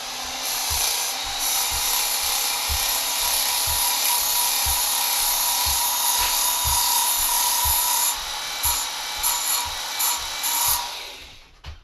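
Work Sharp belt sharpener with its tool grinding attachment running, a steel lopper blade ground against a finer-grit abrasive belt to refine the bevel, with a steady motor hum under the grinding. Near the end the grinding breaks into short strokes, then the sound dies away.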